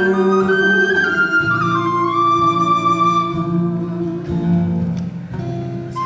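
Live instrumental music: a slow melody of long held notes moving step by step over a guitar accompaniment.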